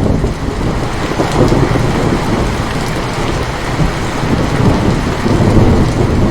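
Steady rain with a roll of thunder that breaks in suddenly and rumbles on deep and loud throughout.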